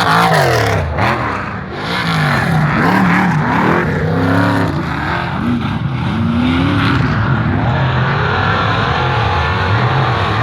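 Off-road racing vehicles running hard at full throttle, engine pitch rising and falling again and again as they accelerate and shift gears.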